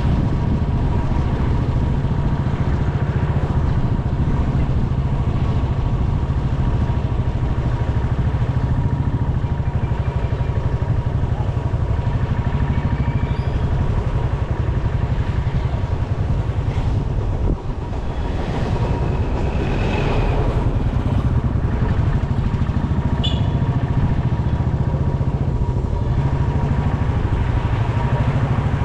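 Motorcycle running on the move, a continuous steady rumble, with a few short high tones from traffic around it.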